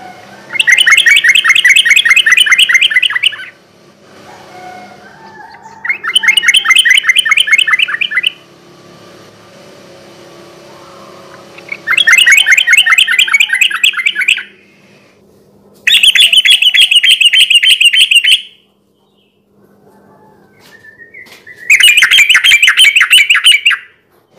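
Yellow-vented bulbul (trucukan) singing in five loud bouts of fast, rattling repeated notes, each lasting about two and a half seconds, with short pauses between them. This is the rapid run of notes called 'ropel' by bird keepers.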